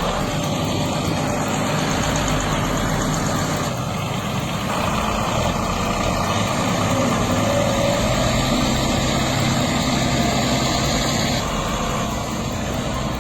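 Heavy vehicle engine running steadily, with dense mechanical noise; the sound changes character a few times.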